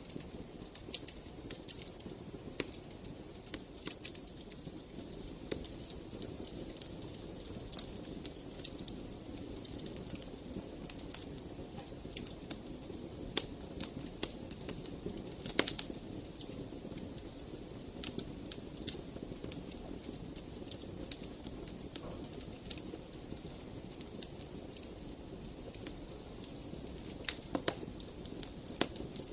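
Wood fire burning in a fireplace: a steady low rush of flames with frequent sharp crackles and pops. A few pops are louder, about halfway through and near the end.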